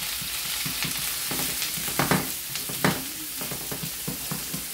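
Sliced mushrooms and onions sizzling in hot oil in a skillet while being stirred with a wooden spoon, with two louder knocks about two and three seconds in.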